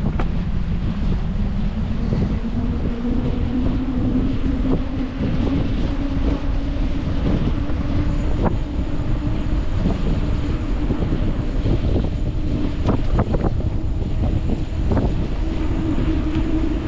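Wind rushing over the microphone of a camera on a moving bicycle, with a steady hum that rises slightly in pitch over the first few seconds and a scattering of light clicks.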